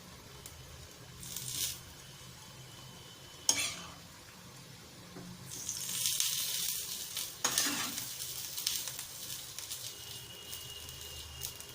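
Biryani masala and rice sizzling in a hot pot as a spoon spreads the masala layer over the rice. The sizzle swells for a couple of seconds about six seconds in, and the spoon knocks sharply against the pot twice.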